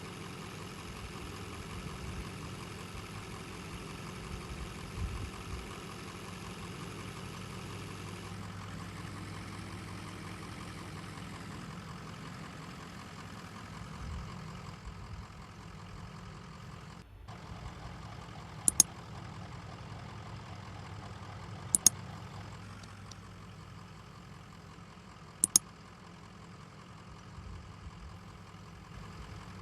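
Heavy construction machine's diesel engine running steadily at low revs. Three sharp double clicks stand out in the second half.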